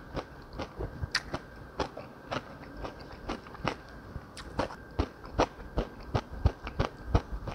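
A person chewing and biting food close to a clip-on microphone: a steady run of short, crisp mouth clicks and crunches, about two a second.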